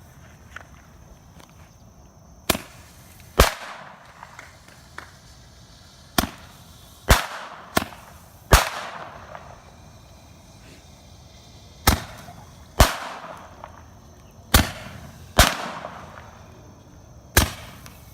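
Handheld Roman candle firing its shots: sharp pops, mostly in pairs about a second apart, every few seconds, each trailing off in a fading hiss.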